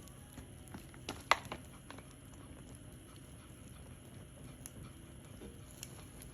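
Campfire crackling, with scattered small snaps of burning wood and one loud sharp pop about a second in.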